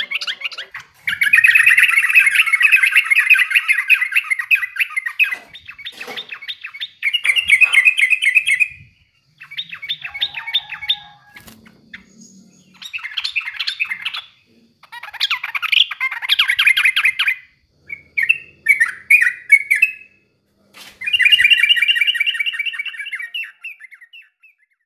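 Yellow-vented bulbul singing fast chattering phrases of quickly repeated notes, about seven phrases with short pauses between them.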